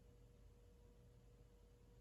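Near silence, with the faint steady hum of a Casablanca K63 Victorian ceiling fan's motor running.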